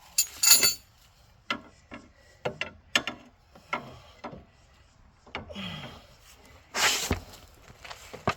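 Metal knocks, clanks and scraping as a heavy front strut assembly is handled and worked into position on a pickup's suspension. About a dozen sharp knocks, with two louder scraping clatters, one just after the start and one about seven seconds in.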